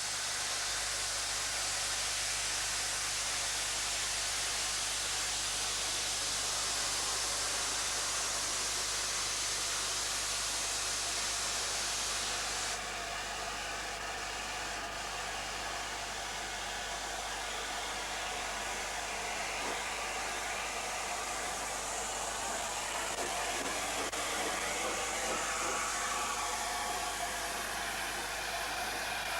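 LNER A4 Pacific steam locomotive at work, a steady loud hissing rush of steam and running noise, with an abrupt change in its tone about thirteen seconds in.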